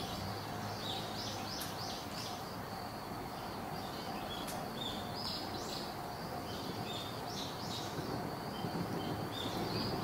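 Japanese white-eye giving short, high chirps in small clusters every couple of seconds, over a steady outdoor background hum.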